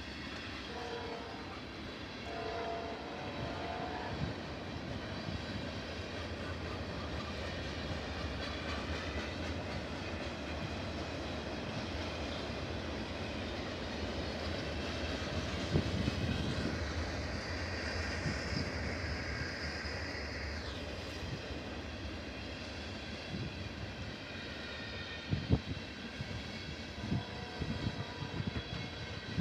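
Freight train rolling past: a steady rumble of engines and wheels on the rails, with short horn-like tones in the first few seconds, a higher-pitched sound for a few seconds past the middle, and a few sharp knocks near the end.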